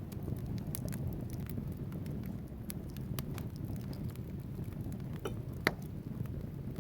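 Wood fire burning in a fireplace: a steady low rumble of flames with scattered sharp crackles and pops from the logs, one louder pop near the end.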